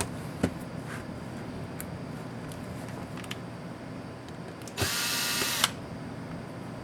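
Small electric screwdriver motor whirring in one short burst of just under a second, about five seconds in, driving a laptop case screw. A few light clicks of small parts being handled come before it.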